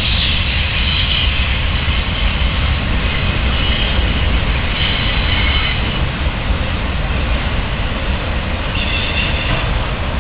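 CSX freight train's boxcars and autorack cars rolling past close by: a steady rumble of steel wheels on rail. A few brief, faint high squeals from the wheels come through now and then.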